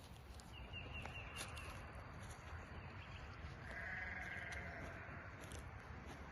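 Quiet outdoor background with a single quavering animal call lasting about a second, about three and a half seconds in.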